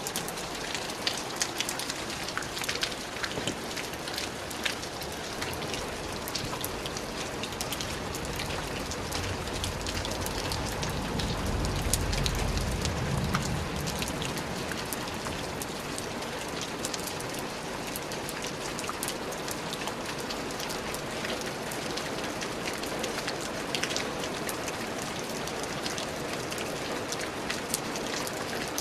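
Steady rain falling on a surface, an even hiss with many sharp drop ticks. A low rumble swells and fades about halfway through.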